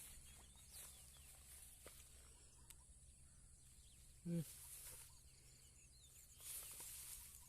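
Quiet rice-field ambience with a faint steady high whine, like insects. A brief low-pitched sound stands out about four seconds in, and there is a short rustle near the end.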